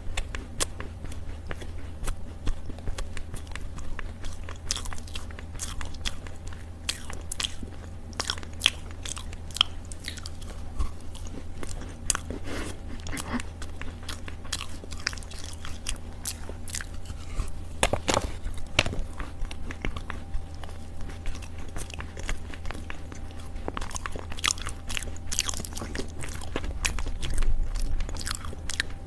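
Close-up biting and chewing of chunks of Chinese loess (edible clay earth): soft, irregular crunches and crackles, over a steady low hum.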